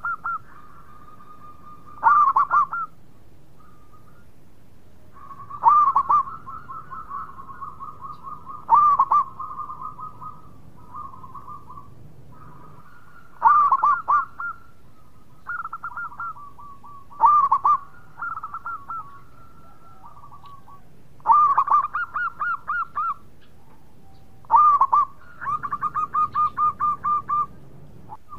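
Zebra doves (perkutut) cooing: a loud rolling coo phrase comes about every three to four seconds, with quieter, quick runs of repeated coo notes between them.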